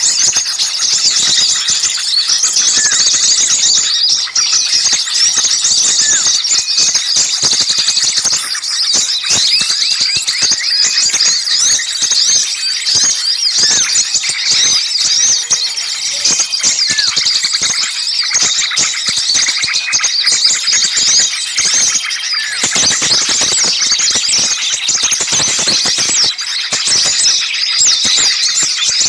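A dense, unbroken chorus of many small songbirds chirping and chattering in high, rapid calls. It is an agitated small-bird commotion of the kind used as a lure to draw other birds in.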